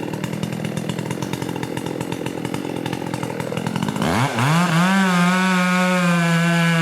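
Chainsaw idling with a rapid, even putter, then revved up about four seconds in and held at high, steady revs.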